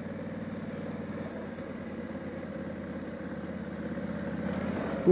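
Honda Africa Twin's 1084 cc parallel-twin engine running steadily as the bike is ridden along a trail, growing slightly louder near the end.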